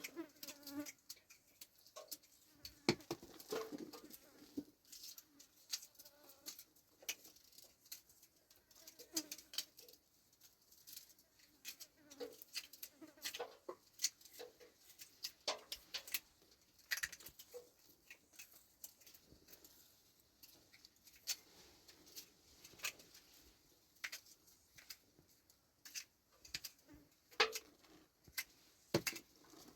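Irregular small clicks and crackles, a few each second, over faint rustling, as of hands handling hard small objects.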